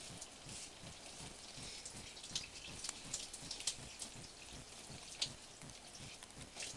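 Water from a neti-pot nasal rinse dripping and splattering in irregular, scattered drops.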